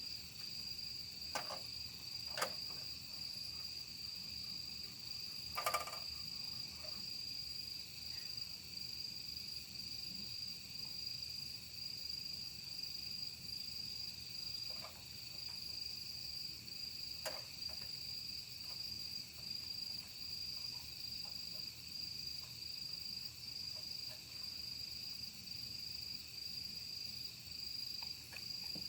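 Crickets and other night insects chirring in a steady, high-pitched chorus, with a few sharp crackles from a burning wood fire, the loudest about six seconds in.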